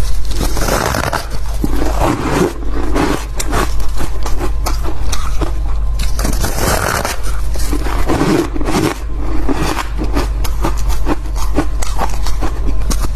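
Fluffy ice being bitten and chewed close to the microphone: dense, quick crunches and crackles that go on without a break, with a steady low hum underneath.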